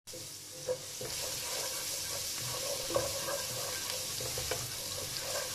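Crushed garlic sizzling in hot olive oil in a pot, a steady hiss, while a wooden spatula stirs it, with a few light taps.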